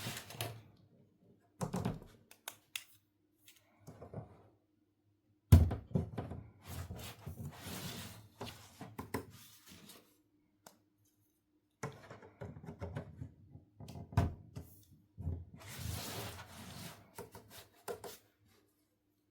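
Hands handling small plastic toy pieces and packaging at close range: bursts of clicks, taps and rustling with short quiet gaps between them.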